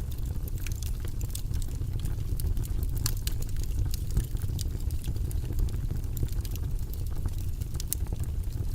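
Wood fire burning in a fireplace: a steady low rumble of flames with frequent small crackles and sharp pops from the burning wood, a few louder pops standing out.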